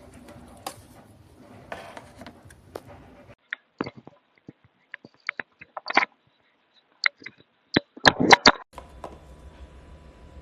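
Irregular sharp clicks and taps of small hard objects, loudest in a quick cluster about eight seconds in, over a faint hiss at the start and end.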